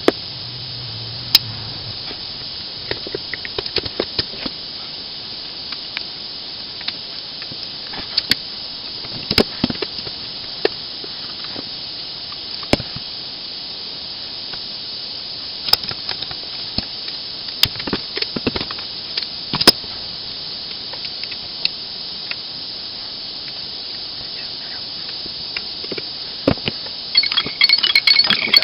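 Scattered sharp clicks and taps of small metal parts and hand tools being handled while a nail gun's trigger assembly is worked on, over a steady high hiss. Near the end comes a quick run of ringing metallic clinks.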